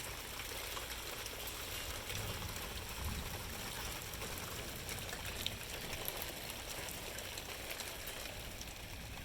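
Rain falling steadily, an even hiss, with a few low gusts of wind buffeting about two to three seconds in.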